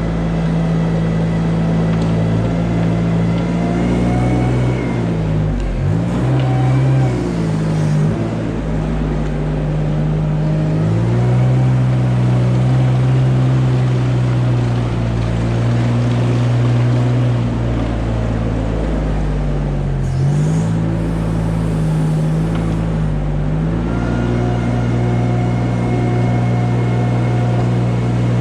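A farm machine's engine running steadily, its pitch dipping and coming back up a few times as the load or throttle changes.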